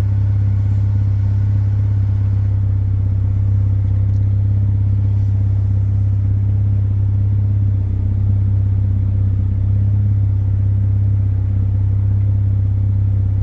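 Mazda RX-8's two-rotor rotary engine idling steadily with the bonnet open, swelling slightly about eight seconds in.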